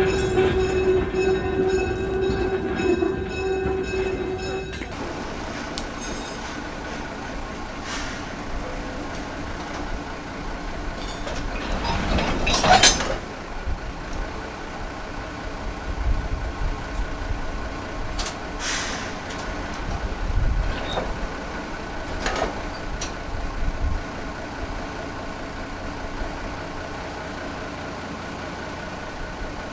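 Train sounds: a steady pitched tone that stops about five seconds in, then a low rumble with several short hisses, the loudest about halfway through.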